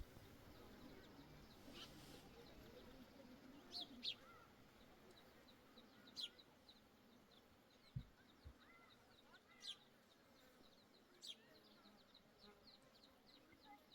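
Near-silent outdoor quiet with faint small-bird chirps: a handful of short, sharp chirps scattered through, and a run of soft, quickly repeated chirps in the second half. A dull low knock about eight seconds in.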